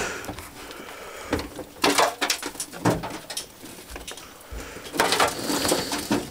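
Irregular scrapes, knocks and crunches as a person clambers over a pickup truck's crushed-in cab roof and broken glass.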